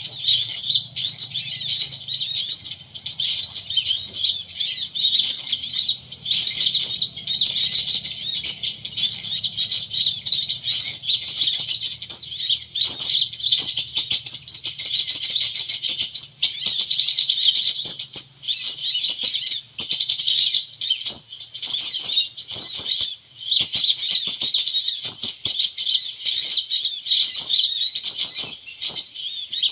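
Small birds chirping: a dense, unbroken stream of rapid, high-pitched overlapping calls, with a few faint clicks in the second half.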